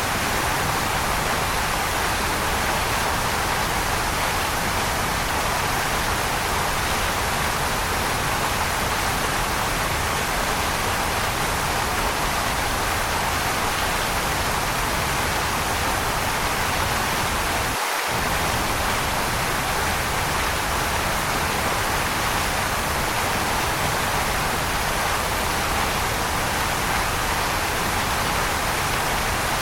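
Waterfall: a steady, unbroken rush of falling water, with a split-second dip in the low rumble partway through.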